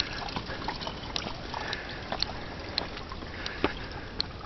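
Footsteps on a rocky trail: short sharp clicks about every half second over a steady hiss.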